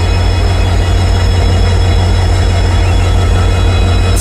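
Twin EMD WDG4 diesel locomotives running, their EMD 710 two-stroke V16 engines giving a loud, deep, steady hum with several thin, steady high-pitched whine tones above it.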